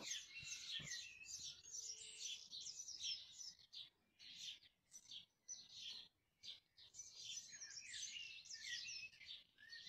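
Faint birdsong: many quick, high chirps and twitters, thinning out in the middle and busy again near the end.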